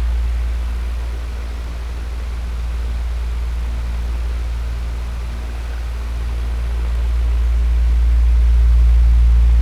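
Electric fan running: a strong, steady low hum under an even rush of air. The level dips slowly about a second in and swells back up near the end.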